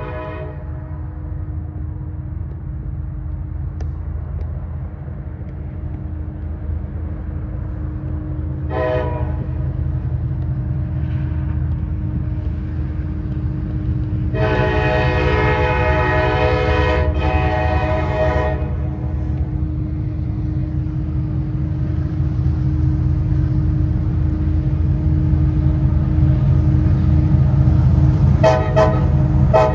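Diesel freight locomotive approaching, its engine rumble growing louder, while its air horn sounds: brief toots, then a long blast with a short break before a second one, and more toots near the end.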